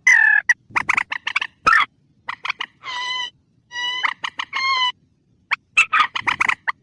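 Rail (Indonesian burung mandar) calling: rapid series of harsh, clicking notes, with a few longer nasal notes in the middle, played as a lure call recording for trapping the birds.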